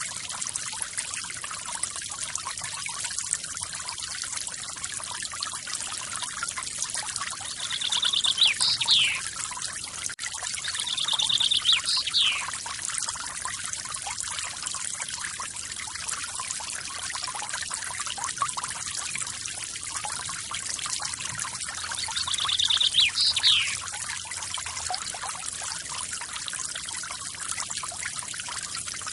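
Forest waterfall splashing and trickling steadily. A songbird sings three times over it, each phrase a short buzzy trill ending in a quick falling note.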